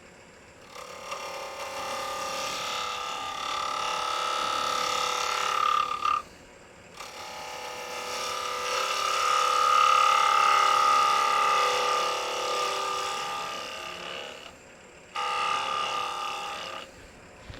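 Turning tool cutting across the face of a spinning block of construction lumber on a wood lathe, a steady buzzing whine in three passes with short breaks about six seconds in and about fifteen seconds in. The cuts take a little off the high outer edge to flatten the face.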